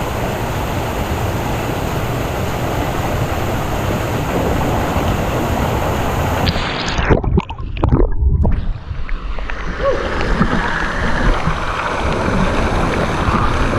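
Pool waterfall splashing: a steady, full rushing of falling water. About six and a half seconds in the sound turns muffled, with a few low thumps, for a couple of seconds. Then the splashing returns, duller than before.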